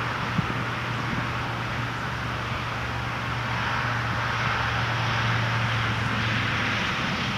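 Steady outdoor rushing noise of wind and distant traffic, with a low engine hum underneath that fades out near the end.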